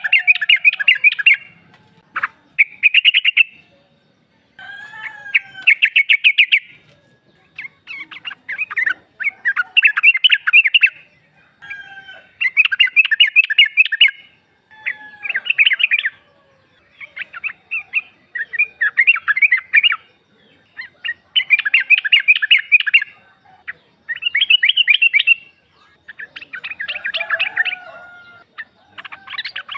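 Yellow-vented bulbul (trucuk) calling: loud bursts of fast chattering notes, each lasting a second or two, repeated every couple of seconds with a few lower slurred notes between them. It is presented as a female's call to a male, used as a lure to make captive males answer.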